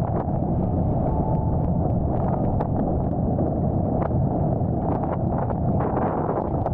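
Strong wind buffeting the microphone in a steady low roar, with short sharp crackles scattered through it, such as spray or chop hitting the board or camera.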